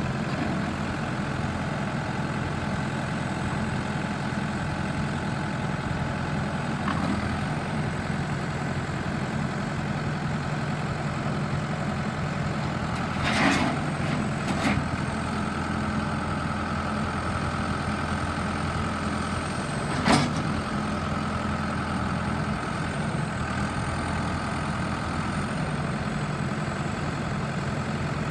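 New Holland LB110 backhoe loader's diesel engine running steadily, with a faint high whine above it. A few sharp metallic knocks come through: two close together about halfway through, and a louder single one a few seconds later.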